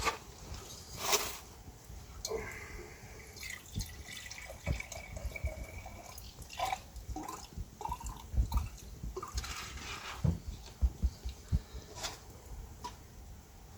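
Rainwater dripping in irregular drops, with scattered knocks.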